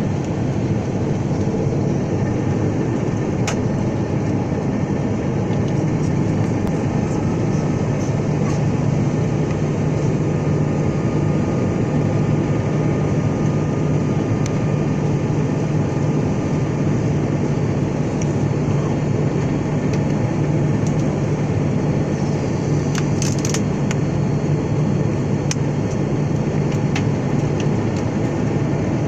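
Steady airliner cabin noise in flight: engine and airflow drone with a constant low hum, and a few faint clicks.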